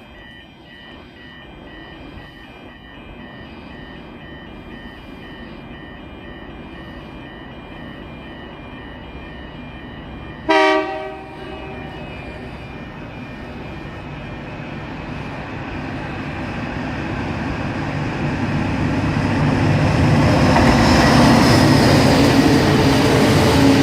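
Freight train led by SCT-class diesel locomotives approaching, its rumble growing steadily louder until engines and wagons run loud past the microphone near the end. About ten seconds in, the lead locomotive sounds one short horn blast.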